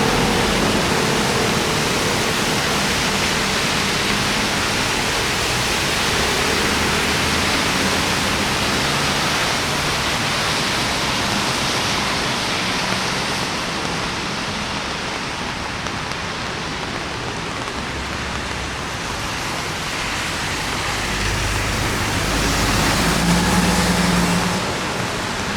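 Steady hiss of rain and tyres on a wet city road, with traffic going by. A vehicle engine passes close, louder near the end.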